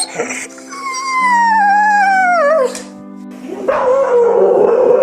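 Dog crying loudly: one long cry that falls steadily in pitch, then a rougher, hoarser cry starting past the middle, over faint steady background music.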